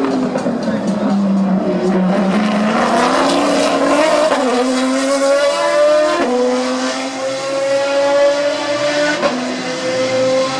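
Maserati MC12 GT1 Corsa's V12 engine accelerating hard. The note dips, then climbs in pitch, falling sharply at each of three upshifts, about four, six and nine seconds in.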